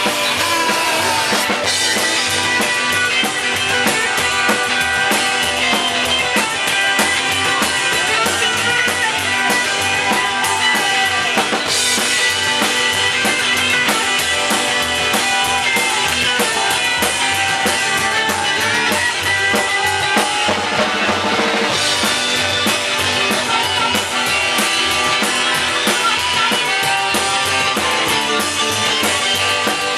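Live rock and roll band playing an instrumental passage: a drum kit keeping a steady beat under electric guitar and a harmonica playing bending notes.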